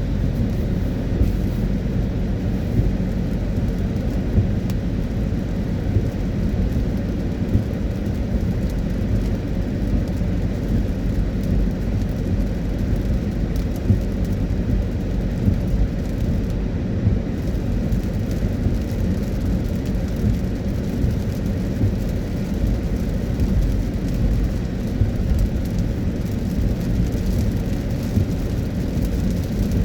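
Car driving on wet roads in rain: a steady low rumble of tyres and engine, with a haze of rain noise over it.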